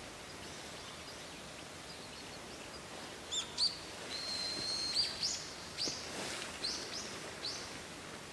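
A bird singing over a faint steady outdoor background: a few quick high chirps about three seconds in, then one held whistle lasting about a second, then a series of short rising notes.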